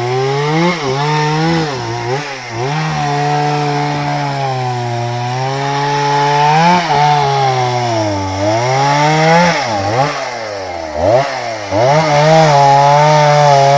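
Two-stroke chainsaw cutting through a jatobá hardwood log, its engine note sagging as the chain bites and climbing back to full revs several times, with the deepest dips near the middle and about two-thirds of the way through.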